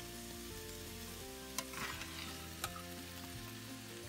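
Stir-fried noodles and vegetables sizzling gently in a stainless steel frying pan as they are tossed with a spatula, with two sharp clicks of the spatula against the pan, about one and a half and two and a half seconds in.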